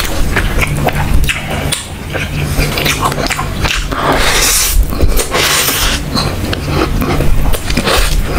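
Close-miked wet chewing and lip-smacking of a mouthful of rice and chicken curry eaten by hand, with many short smacks and squelches.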